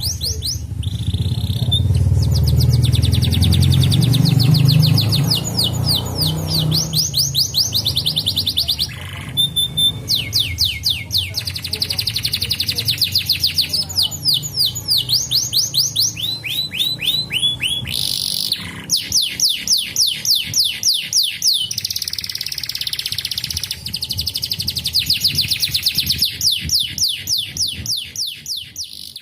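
Domestic canary singing a long, fast song: rapid trills of repeated sweeping notes, switching to a new trill every second or two, over a low rumble in the first few seconds. The song fades out at the end.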